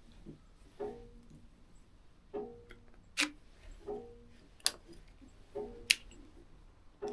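Soft plucked guitar music with a note about every second and a half. Three sharp camera shutter clicks fall about a second and a half apart, from a DSLR photographing birds.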